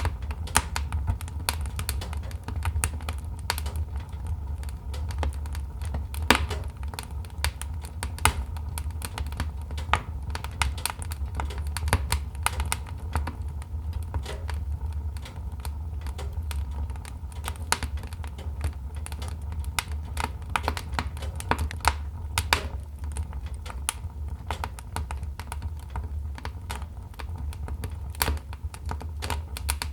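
Wood fire crackling: a dense run of irregular snaps and pops, some louder than others, over a steady low rumble.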